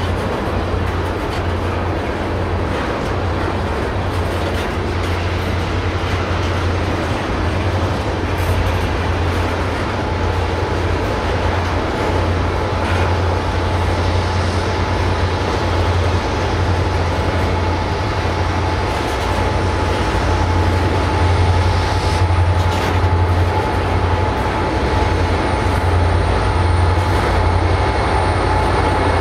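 A freight train of loaded oil tank cars rolling past, a steady din of wheels on rail under a low drone, as the rear helper diesel locomotives draw closer. A thin steady squeal joins about ten seconds in.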